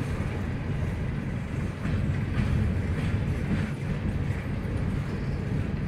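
Empty coal hopper cars of a freight train rolling past, a steady low rumble of steel wheels on the rails.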